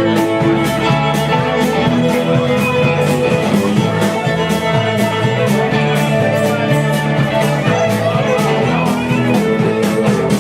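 Instrumental break of a country song: guitar playing over a moving bass line and a steady drum beat, with no singing.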